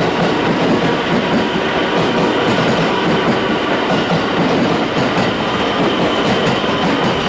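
Electric train running along a station platform, its wheels clattering over the rail joints under a loud, steady rumble. A faint high whine comes in about halfway through.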